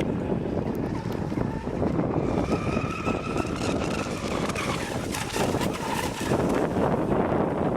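Heavy wind buffeting the microphone, with the thin whine of a model boat's motor rising and falling in pitch under it.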